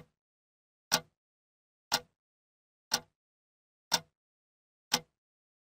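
Countdown-timer sound effect ticking once a second, six short, sharp ticks, marking off the seconds of a 30-second countdown.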